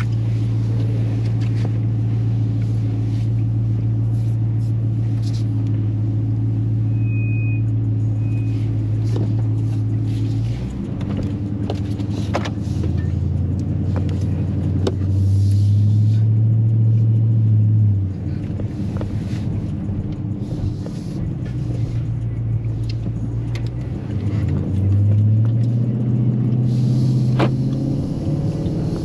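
Dodge Charger Scat Pack's 392 (6.4-litre) HEMI V8, heard from inside the cabin, idling steadily for about ten seconds, then pulling away. Under light acceleration its note rises, falls back about halfway through as it shifts, and rises again near the end.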